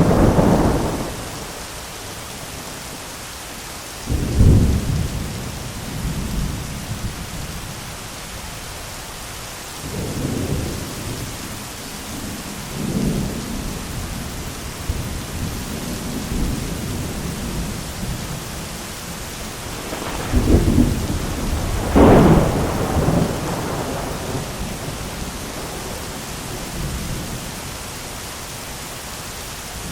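Steady rain with rolling thunder: a clap right at the start, another about four seconds in, softer rumbles around ten and thirteen seconds, and the loudest crashes around twenty to twenty-three seconds in.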